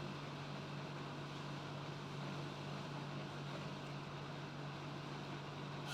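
Steady low hum over a faint even hiss, with no distinct events: background machine or electrical hum in a room.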